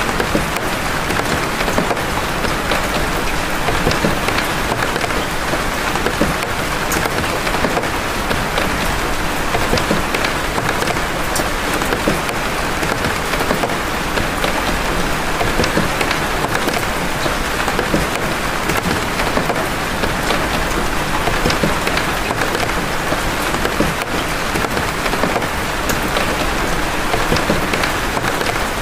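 Steady rain, with big raindrops landing as many separate clicks over an even hiss.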